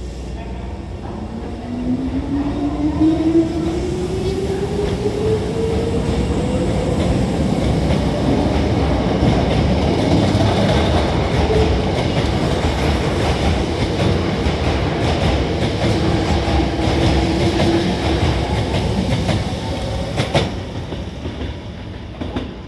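Hankyu 6000 series electric train pulling out: the traction motors' whine rises steadily in pitch as it accelerates, over the rumble and clatter of wheels on the rails as the cars go by, with a sharp click near the end before the sound fades away.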